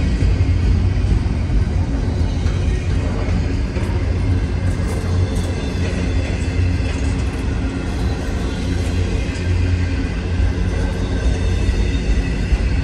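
Intermodal freight train's cars rolling past: a steady, loud low rumble of steel wheels on the rails, with light scattered clicks and rattles.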